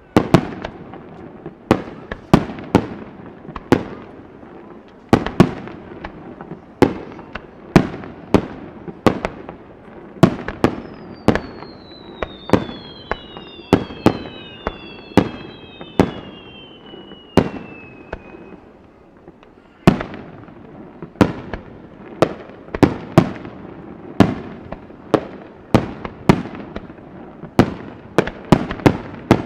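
Fireworks display: aerial shells bursting in a rapid, irregular run of bangs, about one or two a second, each trailing off. Partway through, several overlapping whistles fall in pitch, then the bangs pause briefly before starting up again.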